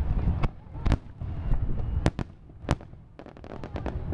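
Aerial firework shells bursting overhead: about five sharp bangs at uneven intervals over a continuous low rumble from the display.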